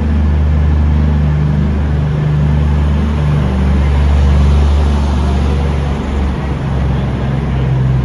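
Class 220 Voyager diesel-electric multiple unit's underfloor diesel engines running with a loud, steady low drone as the train moves off on an empty stock movement.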